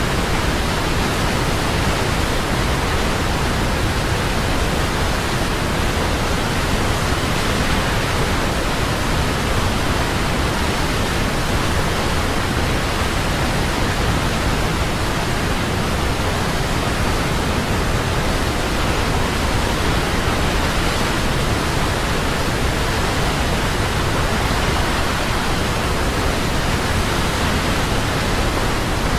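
Large waterfall: a steady, loud rush of falling water, even and unbroken.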